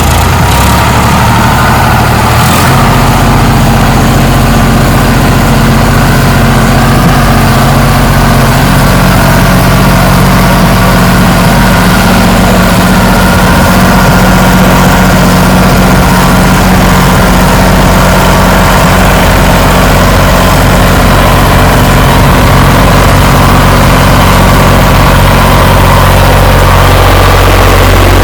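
Sonalika 47 RX tractor's diesel engine running steadily and loud, close to the microphone. Its note shifts slightly about two and a half seconds in and again around eight seconds in.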